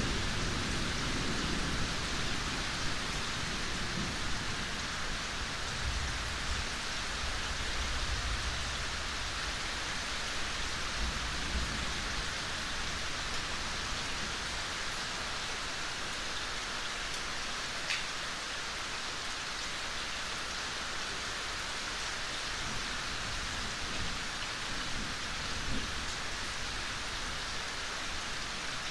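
Steady, gentle rain falling in an even hiss. A low rumble of distant thunder dies away over the first ten seconds or so.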